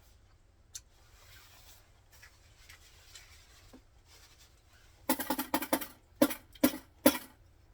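Hard-boiled egg being knocked against a hard surface to crack its shell: a quick flurry of sharp taps about five seconds in, then single knocks about half a second apart.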